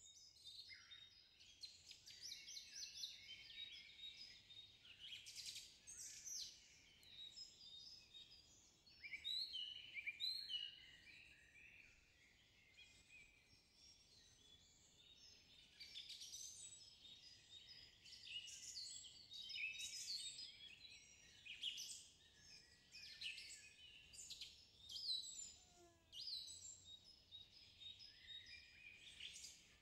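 Faint birdsong: several small birds chirping and calling in quick, high notes, growing louder for short spells now and then.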